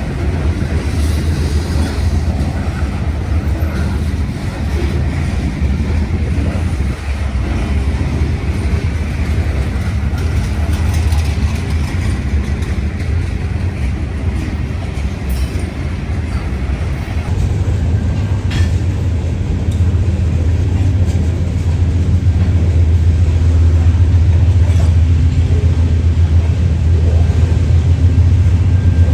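Diesel locomotives of a freight train approaching, their deep engine rumble growing steadily louder in the last third.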